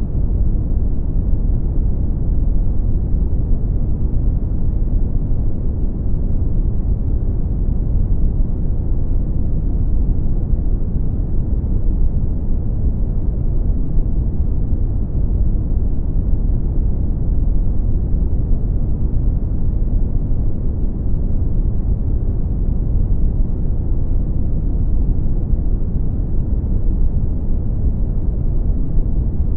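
Brown noise: a steady, deep rumble of random noise with most of its energy in the bass, unchanging throughout.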